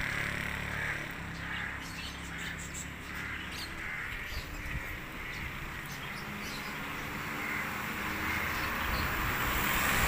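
Birds calling outdoors, a string of short repeated calls and chirps every half second or so, over a low steady hum like distant traffic.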